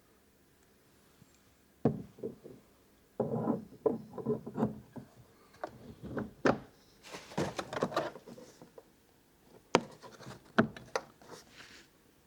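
Lock hardware being handled and fitted: an irregular run of knocks, sharp clicks and scraping rubs that starts about two seconds in, with a few single sharp clicks near the end.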